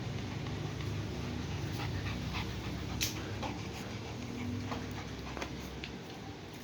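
Puppies making small, faint vocal sounds, with scattered light clicks and one sharper click about three seconds in.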